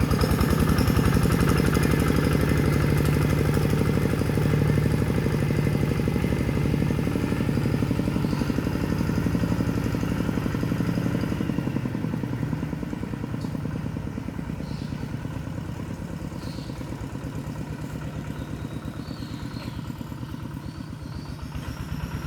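Single-cylinder diesel engine of a Kubota RV125-2 two-wheel hand tractor running steadily with rapid, even firing beats, growing gradually fainter over the second half.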